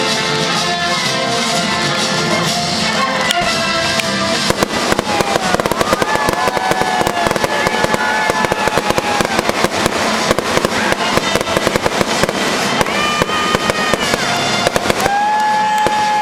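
An orchestra playing. About four seconds in, fireworks start crackling and popping rapidly and keep going over the music until near the end.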